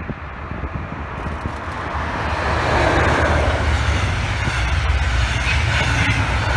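A train passing at speed. The rumble and rushing of the wheels on the rails grow louder over the first couple of seconds, then stay loud as it goes by.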